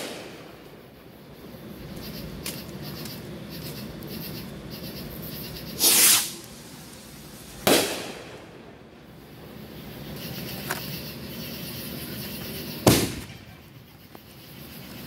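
Aerial firework shells bursting overhead: three loud booms several seconds apart, each trailing off briefly, with a couple of fainter pops between them.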